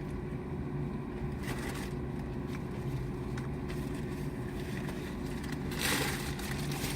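Steady low hum of a car's idling engine heard inside the cabin, with a short scrape about a second and a half in and a louder one about six seconds in.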